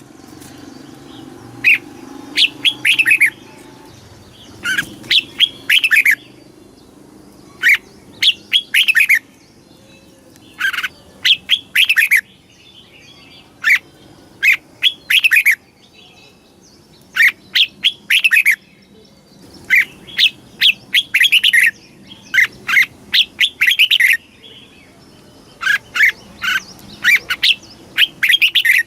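Red-whiskered bulbul singing: short phrases of quick whistled notes, each falling in pitch, repeated every second or two.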